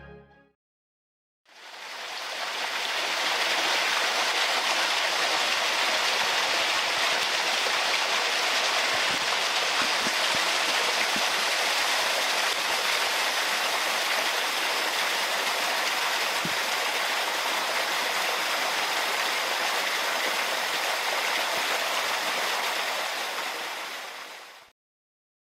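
Rushing water, a steady even rush that fades in about a second and a half in and fades out near the end.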